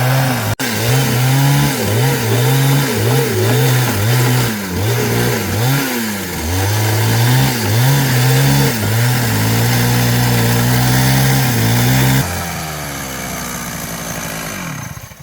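Small engine-driven power tool repeatedly revved up and let back down, then held at speed for a few seconds. Near the end it drops off suddenly and winds down to a stop.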